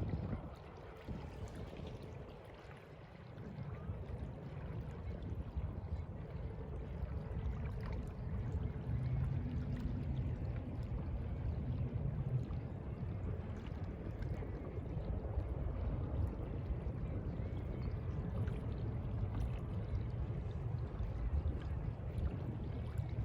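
Sea water sloshing and lapping, over a steady low rumble. It dips slightly a couple of seconds in, then runs on evenly.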